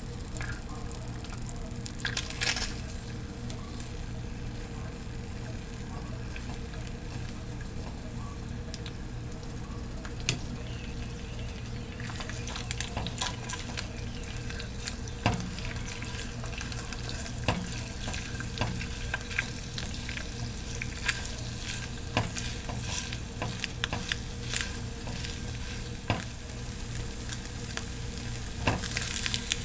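Food frying and sizzling in a pan while it is stirred, with many sharp clicks and taps of a utensil against the pan in the second half, over a steady low hum.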